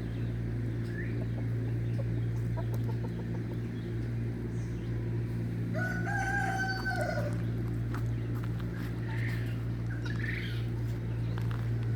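A rooster crows once, a long level call about six seconds in, among the short calls of penned farm birds. A steady low hum runs underneath throughout.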